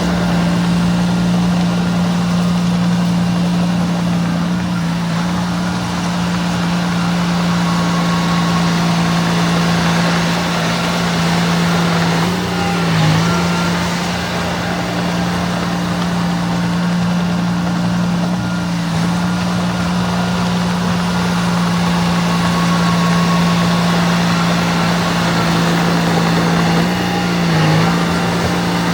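Diesel engine of a small bulldozer running steadily at work, its note dipping briefly twice, about halfway and near the end, as it takes load.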